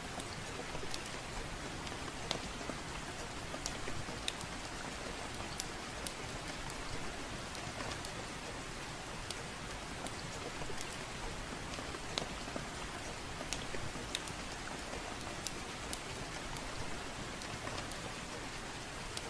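Soft, steady rain with a fire crackling, its sharp pops scattered irregularly, fewer than one a second.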